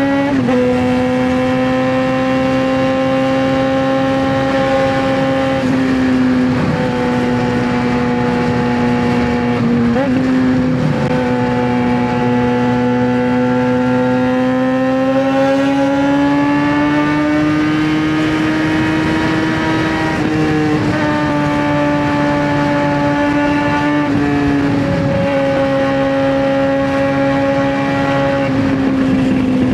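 Straight-piped 2009 Suzuki GSX-R600 inline-four running at steady revs under way, its pitch drifting gently up and down with a brief dip every few seconds.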